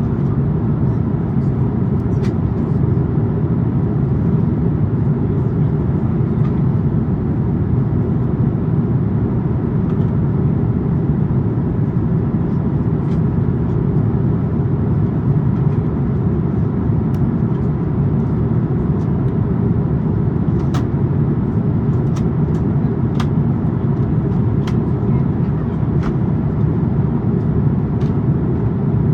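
Steady cabin rumble of an Airbus A350-900 in flight, the noise of its Rolls-Royce Trent XWB engines and the airflow heard from a window seat. A few faint light clicks sound now and then over the rumble.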